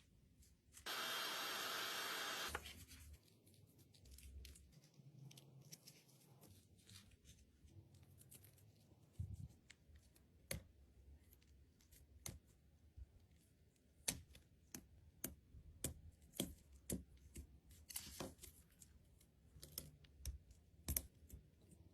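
Small repair tools clicking, tapping and scraping against an Apple Watch during a screen replacement, as scattered faint clicks. About a second in comes a steady hiss lasting a second and a half.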